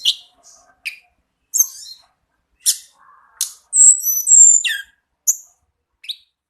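Tledekan gunung songbird calling: a string of short, sharp high notes, then about four seconds in a louder run of high whistled notes with gliding pitch.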